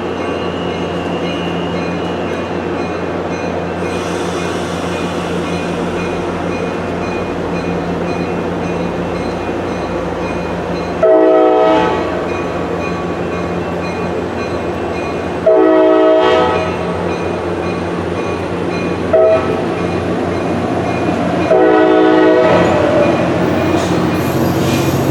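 A diesel locomotive's steady engine drone, then its horn, several tones at once, sounding the grade-crossing signal: two long blasts, a short one and a final long one.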